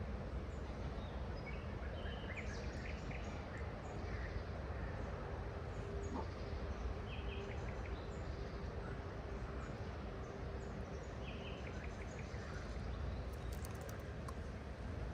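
Small birds chirping now and then over a steady outdoor background rush, with a faint steady hum from about four seconds in until about twelve.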